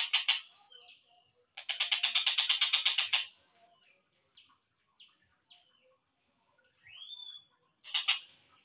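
Slowed-down recording of a tengkek buto (kingfisher) calling: a fast rattling trill, a pause with a few short chirps, a second trill of about a second and a half, then a rising whistle that levels off, and a brief trill near the end.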